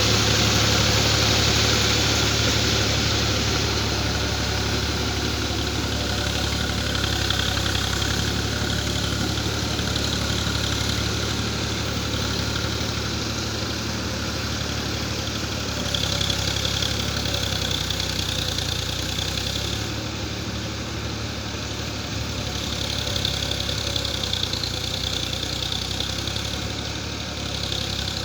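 Swaraj 735 FE tractor's three-cylinder diesel engine running steadily, with a higher hiss that swells and fades a few times.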